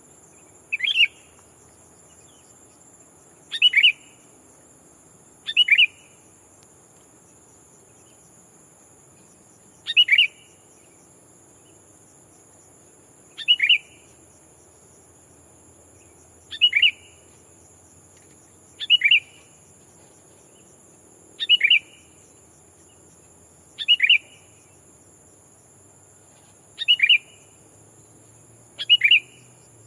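Sooty-headed bulbul (kutilang) calling: about a dozen short, doubled chirps spaced every two to four seconds, the decoy bird's call used to lure wild bulbuls. A steady high insect drone runs underneath.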